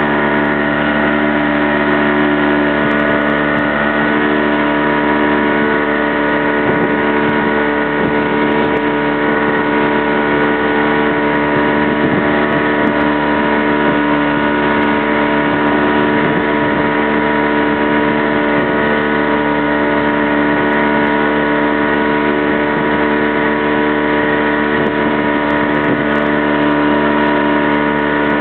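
Motorboat engine running at a steady speed, one constant drone that doesn't change in pitch or level.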